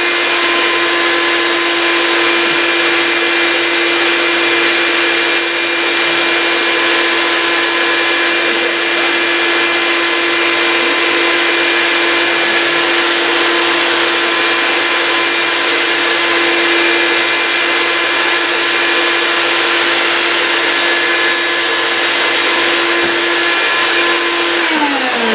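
Vacuum motor running steadily, pulling the air out of a vacuum-forming table as a heated PETG sheet is drawn down over the plugs; its hum falls in pitch near the end as it winds down.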